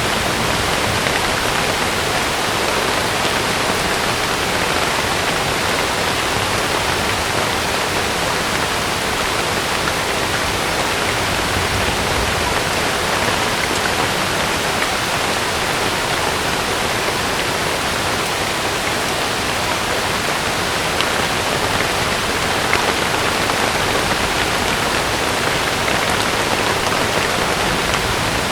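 Heavy rain falling on a camping tent, a steady, even rush.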